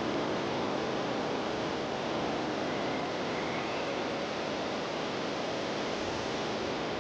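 Steady, even rushing background noise of a large indoor airport garden, with no distinct events standing out.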